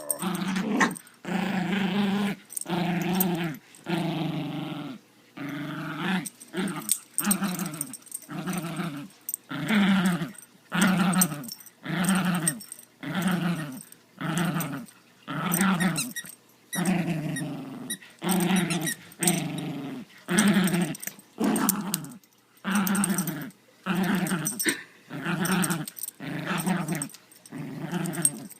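Morkie puppy growling in play during tug-of-war: a long run of short, low growls, about one a second, with brief breaths between them.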